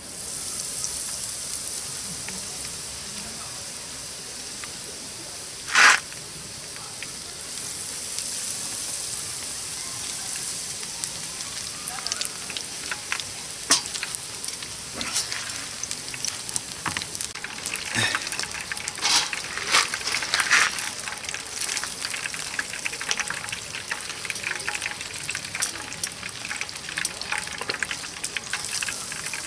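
Sizzling over a campfire, with crackles and pops that come thicker from about twelve seconds in. One short, louder burst comes about six seconds in.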